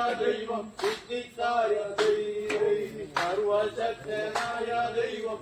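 Men singing a Malayalam boat song (vanchipattu), with a sharp beat marking the rhythm about every second and a bit.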